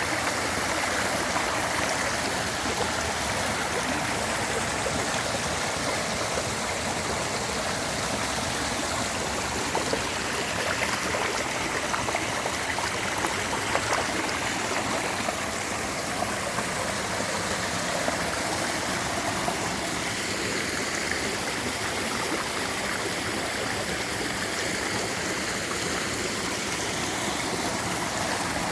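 Stream of clear water flowing steadily, a continuous rush of water with small splashes here and there.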